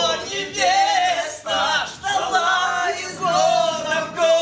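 Men's voices singing, a tune that rises and falls throughout.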